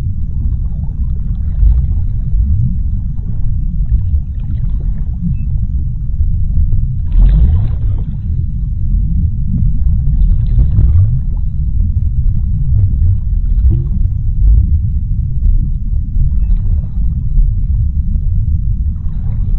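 Deep-sea underwater ambience: a constant low rumble of water, with a few brief surges of brighter water noise, the clearest about seven and ten seconds in.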